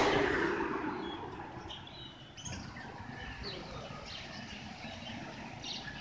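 Small cage birds chirping in many short, high tweets. A loud rush of noise at the start fades away over the first two seconds.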